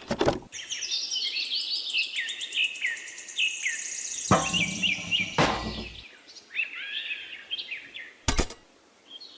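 Small birds chirping throughout, repeated short falling chirps with a fast high trill over the first few seconds. A sharp knock comes at the start, a louder clatter of handling noise around four to six seconds in, and a brief click near the end.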